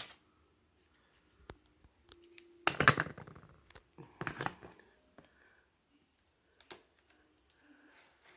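A knife cutting into a cardboard box, with scattered clicks from handling the box and two louder rasping cuts, one about three seconds in and one about a second and a half later.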